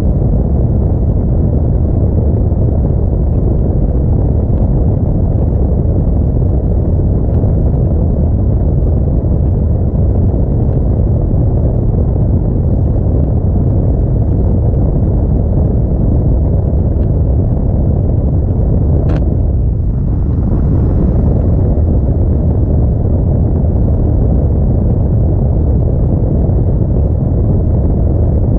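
Steady low rumble of an Audi A4 driving on snowy roads: tyre, road and wind noise mixed with the engine. A single sharp click sounds about two-thirds of the way through, followed by a brief dip in the rumble.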